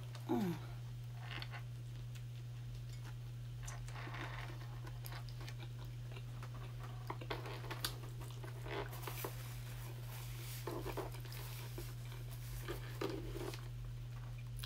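A person chewing a big mouthful of chili cheese dog, with soft wet smacking and mouth clicks scattered throughout, over a steady low hum.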